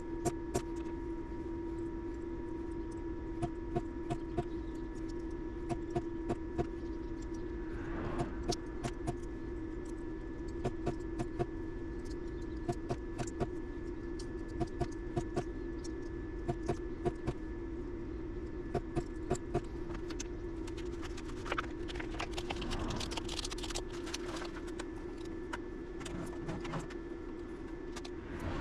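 A steady electrical hum runs throughout, with frequent small metallic clicks and taps, and brief scrapes about a third of the way in and again past the middle, as of small hand tools working on the power station's parts.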